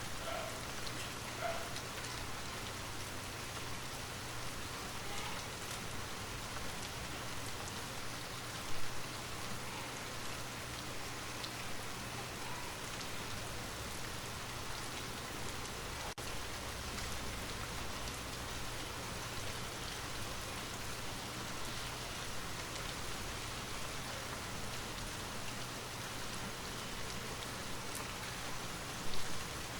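Steady rain falling and pattering, an even wash of sound with two brief louder moments, about nine seconds in and near the end.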